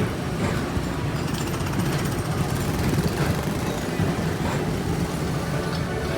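Ride vehicle running along its track: a steady low rumble with a rattle, the sound heard from on board.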